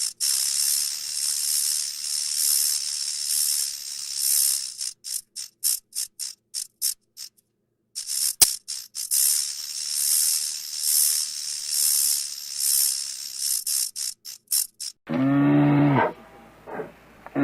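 A high hissing buzz that swells and fades about once a second, starting and stopping in quick stutters, with one sharp click in a short break midway. Near the end a cow moos, a long, low, pitched call.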